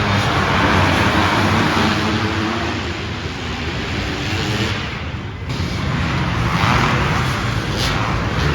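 Dirt bike engines running, with a brief dip in loudness about five seconds in.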